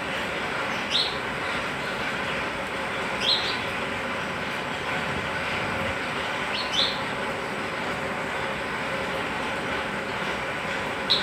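A sparrow chirping four times, single short high chirps a few seconds apart, over a steady rushing background noise.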